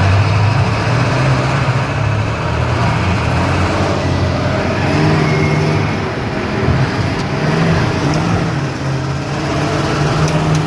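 Monster truck's engine running under way, its pitch rising and falling with the throttle, over steady rumble and road noise.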